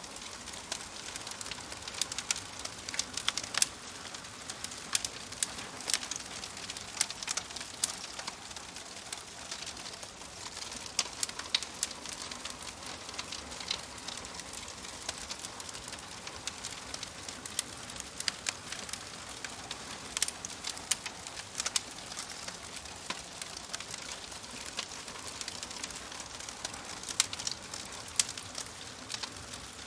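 Wood fire crackling in a fireplace: a steady soft hiss with frequent irregular sharp pops, some much louder than others.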